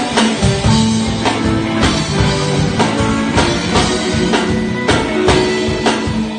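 Surf rock instrumental played live by a band: electric guitar lines over a drum kit keeping a steady beat.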